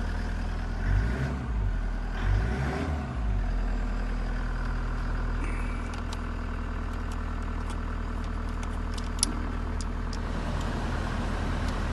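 Toyota Hiace's 3-litre turbo diesel idling steadily, with a few sharp clicks about nine seconds in.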